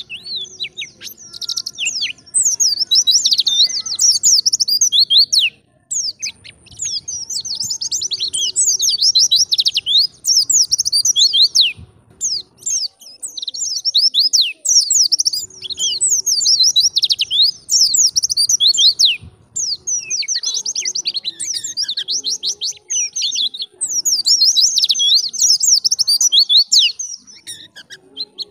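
White-eye (pleci) singing in long, rapid runs of high twittering chirps, broken by brief pauses about five, twelve and twenty seconds in.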